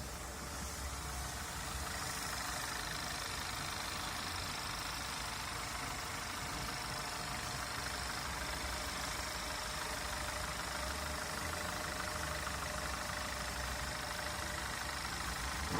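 Engine running steadily at a constant speed, a little louder from about two seconds in.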